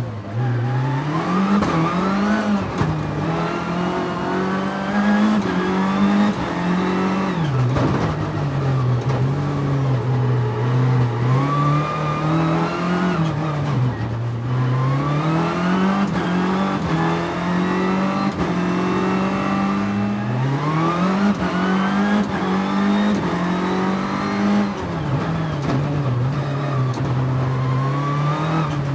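Nissan 300ZX's V6 engine under hard driving, its pitch climbing as it accelerates and then dropping back sharply, over and over, about every six or seven seconds.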